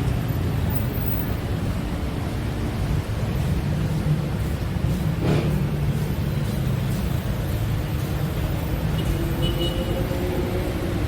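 Steady rumble of road traffic, with a brief sharp sound about halfway through and a low droning engine tone coming in near the end.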